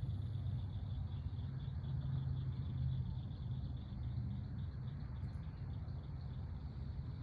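Outdoor backyard ambience: insects chirring in a high, quickly pulsing band over a steady low rumble.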